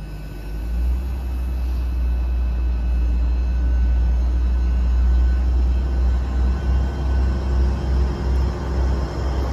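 Great Western Railway Class 800 bi-mode train pulling away from the platform under diesel power: a deep, steady rumble that swells about half a second in, with a faint whine above it.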